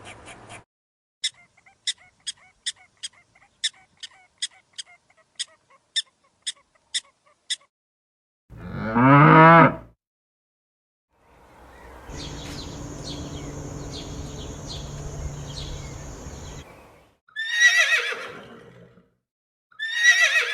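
A run of different animal sounds one after another. First comes a series of about fifteen sharp clicks, then a single loud call that is the loudest thing here. After that there is a stretch of noisy sound with a high steady tone and regular pulses, and at the end two short calls falling in pitch.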